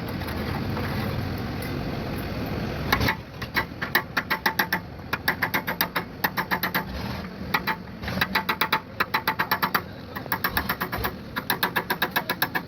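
A steady rushing noise for about three seconds, then rapid light taps on metal, about five a second, in runs of a second or two with short pauses between them, each tap ringing briefly.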